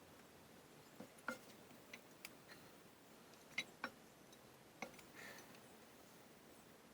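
Faint, sharp clicks and taps of small metal parts and hand tools being handled while a bench grinder's guards are fitted, about seven scattered clicks with a brief rustle near the end, over near silence.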